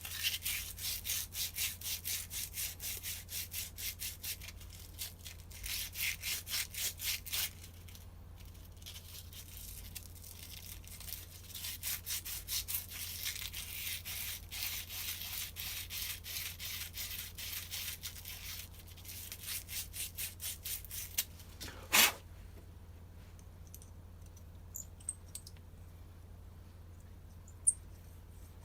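Sandpaper rubbed back and forth by hand on a binding brush-cutter part, in rapid scraping strokes of about five a second that pause and resume. A single knock sounds about 22 seconds in, followed by a few faint clicks.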